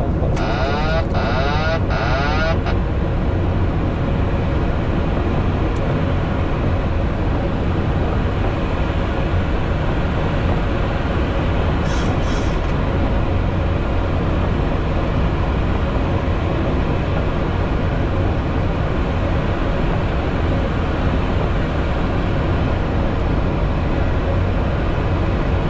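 Steady rumble and hiss of a Boeing 737 MAX 8 flight deck on the ground after landing, engines at idle. There is a short warbling burst in the first two seconds and a brief high tick about twelve seconds in.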